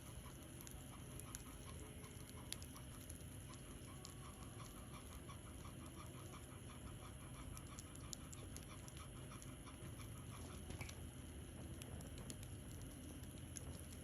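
Bonfire crackling with scattered sharp pops over a low steady rumble, and a dog panting rhythmically.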